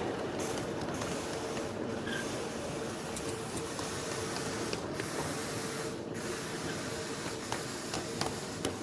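Ride-on live-steam miniature locomotive running: a steady hiss of steam with a faint steady tone and occasional sharp clicks.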